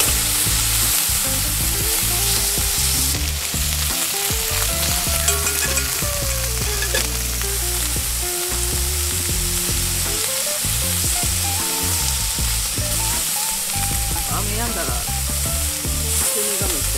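Food sizzling in a hot frying pan as it is stirred with chopsticks.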